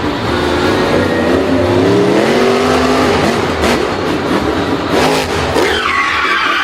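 Vehicle engine revving, its pitch wavering and climbing over the first few seconds, with a few sharp clicks; near the end a falling whine settles into a steady high tone.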